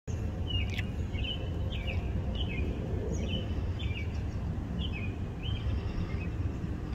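A bird repeating a short chirp over and over, about every half second, over a steady low rumble.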